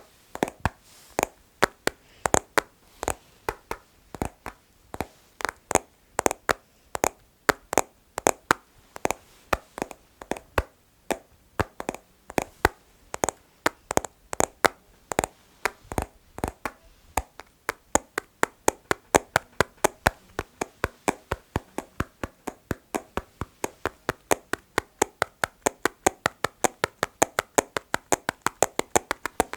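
Rhythmic fingertip tapping on hard objects, a steady run of sharp taps that quickens about halfway through.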